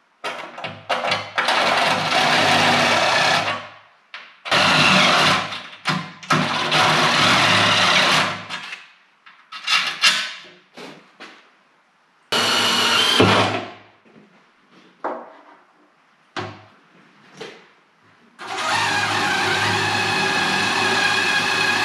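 Electric drill running in several bursts of a few seconds each, with short stops between, as it bores or drives screws.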